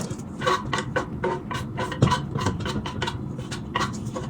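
A spoon clinking and scraping in a bowl of chatpate, in quick irregular strokes, as chopped vegetables are added to the snack mix.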